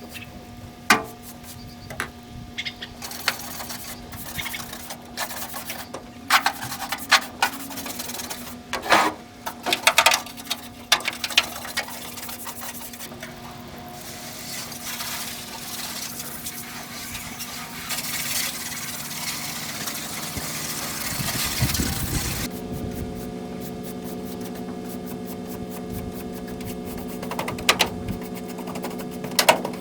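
A steel pickup truck bed being washed out: scattered knocks and clatter, then about ten seconds of water spray hissing against the metal, over a steady hum that changes pitch near the three-quarter mark.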